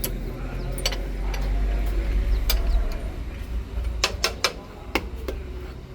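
A low engine rumble that eases off about three and a half seconds in, with scattered sharp metallic clinks and knocks, several in quick succession about four seconds in.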